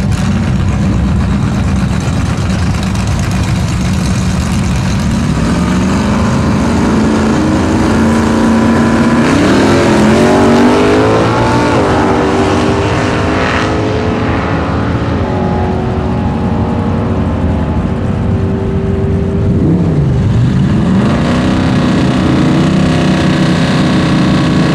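A 1972 Chevy Nova's 383 stroker V8 rumbles at the start line, then revs and pulls hard on a full-throttle drag-strip pass, its pitch climbing for several seconds and stepping down through the gears. Near the end an engine's pitch dips sharply and climbs back.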